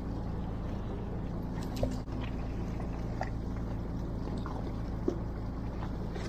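Fishing boat's engine running steadily with a low hum, with scattered small clicks and taps, a couple of them sharper, about two seconds in and near the end.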